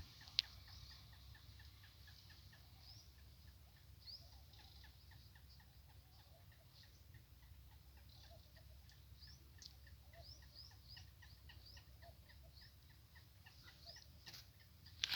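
Faint bird calls, many short chirps repeating quickly throughout, over a low steady rumble, with a sharp click about half a second in and another near the end.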